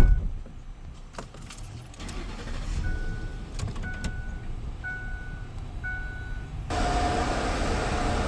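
A car door slams shut, followed by a few clicks and a car's warning chime beeping four times, about once a second. The engine then starts and a steady running noise carries on.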